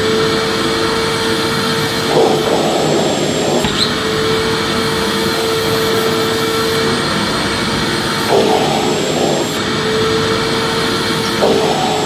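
Vacuum cleaner motor running steadily, a continuous rush of air with a steady hum that drops out now and then. Three brief louder surges come through, about two, eight and eleven seconds in.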